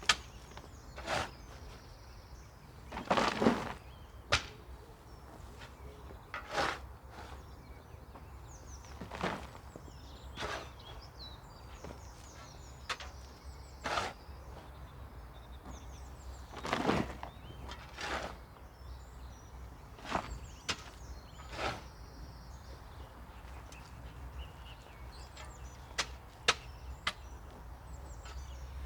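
Wood chips being shovelled and tipped: irregular knocks and scrapes, the longest and loudest about three seconds in and again about seventeen seconds in. Birds chirp faintly behind.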